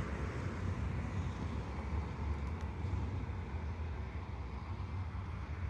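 Recycling truck's engine running steadily as the truck drives off, easing slightly in level, over road traffic noise.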